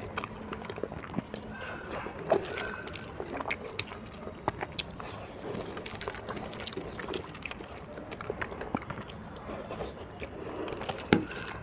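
Wet eating sounds of a person chewing and smacking on mouthfuls of instant noodles, with fingers gathering noodles on a steel plate. Scattered small clicks throughout, a sharper one about two seconds in and another near the end.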